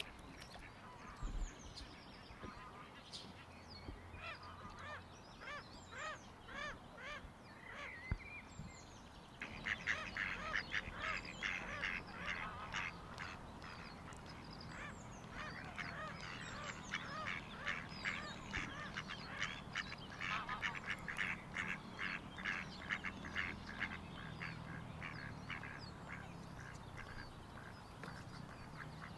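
Waterbirds calling: scattered short calls at first, then about ten seconds in a dense, louder run of rapid repeated calls that thins out again near the end.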